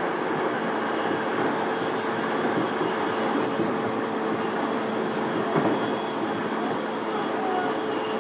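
Inside an E233-7000 series electric train motor car on the move: a steady rumble of wheels on rail with a constant steady tone, and a single knock about five and a half seconds in.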